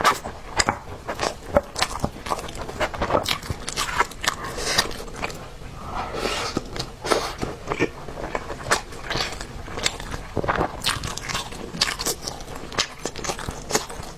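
Close-miked chewing of a mouthful of rice and braised pork, with many short wet clicks and smacks of the mouth.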